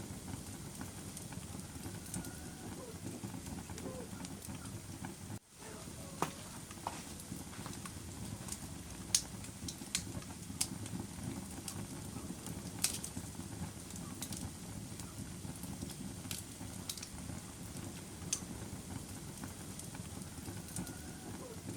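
Wood fire burning in a fireplace: a steady low rumble of flames with sharp crackles and pops scattered through it, the loudest about nine and thirteen seconds in. The sound drops out for a moment about five seconds in.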